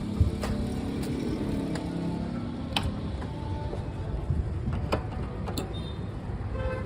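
Road vehicle noise: a steady low engine hum and rumble, with a few sharp clicks in the middle of the stretch.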